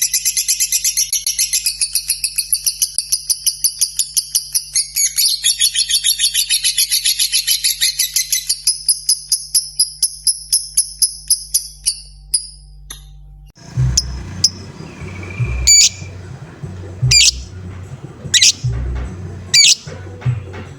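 Lovebird giving its long ngekek trill: a fast, even run of high chattering pulses lasting about twelve seconds, then stopping. After a cut, a few sharp single chirps come about once a second over a low background hum.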